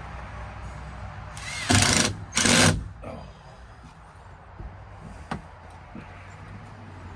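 A power tool running in two short bursts of about half a second each, close together, followed by a few faint knocks.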